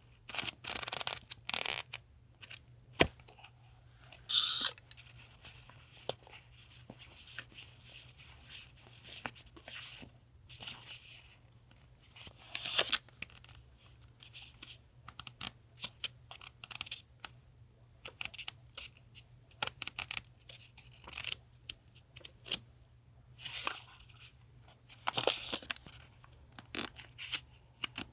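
Paper and packaging of stationery items being handled: irregular rustling and tearing sounds with small taps, in short bursts separated by pauses.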